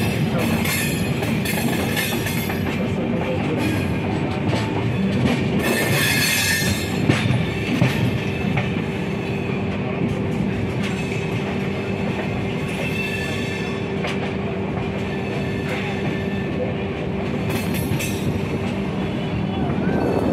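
Running noise of a moving passenger train heard from inside the coach: a steady rumble of wheels on rail with a thin tone held through it, and sharp knocks as the wheels cross points, heaviest about six to seven seconds in and again near the end.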